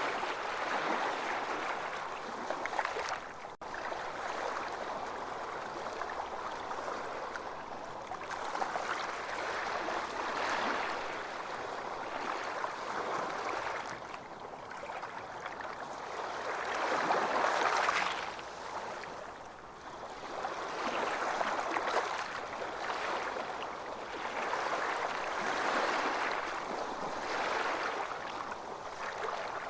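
Ocean waves breaking on a beach: a continuous rushing wash that swells and recedes every several seconds, loudest about seventeen seconds in. A momentary gap in the sound about three and a half seconds in.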